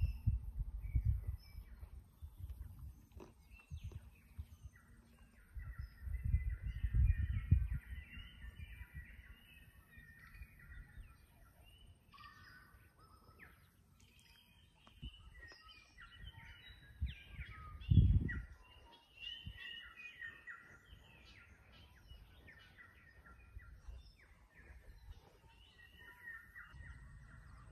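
Birds chirping and calling on and off throughout, with several bursts of low rumble. The loudest rumble is sharp and comes about two-thirds of the way in.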